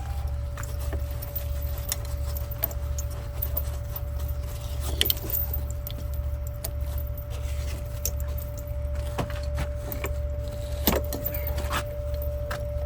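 Logging truck running, heard from inside the cab: a steady low engine drone that pulses evenly, with a thin steady whine over it and scattered rattles and clicks.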